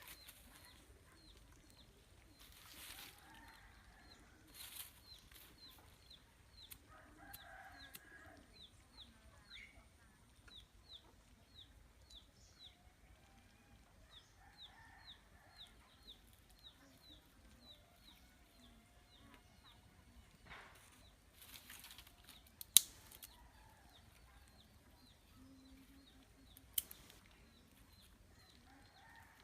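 A chicken clucking now and then, with brief bursts of wing flapping, over a steady series of short high chirps about twice a second. Two sharp knocks come late on, the first the loudest sound.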